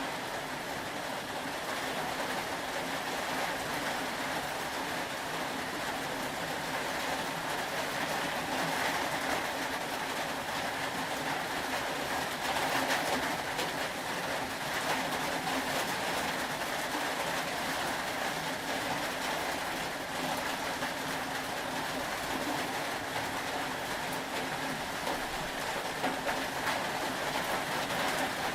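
Steady rain ambience: an even, continuous hiss of falling rain with no breaks or distinct events, over a faint steady low hum.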